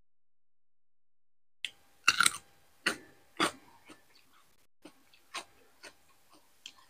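Close-miked eating sounds: a crisp bite into raw cucumber about two seconds in, two more loud crunches within the next second and a half, then quieter wet chewing clicks.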